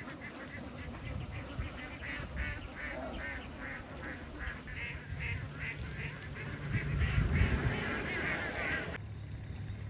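A large flock of ducks quacking in a dense, overlapping chorus over a low rumble. About nine seconds in it cuts off abruptly to a steady low hum.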